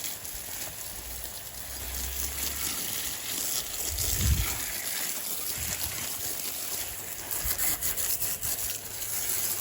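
Steady hiss of water spraying from a garden hose onto garden plants, with a brief low rumble about four seconds in.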